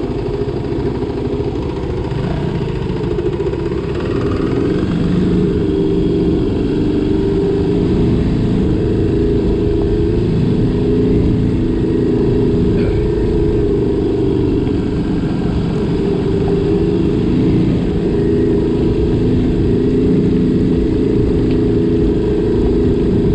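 Motorcycle engine running steadily while riding along, its pitch rising and falling a little as the throttle changes; it gets slightly louder about four seconds in.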